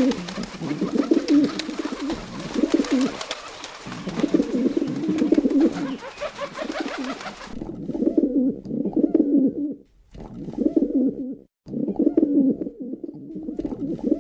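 Pigeons cooing: low coos repeating in phrases every second or two. A background hiss behind them cuts off about seven seconds in.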